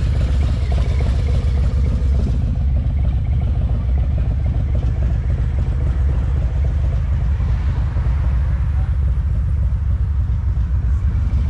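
Motorcycle engines running, a steady deep rumble that holds level throughout.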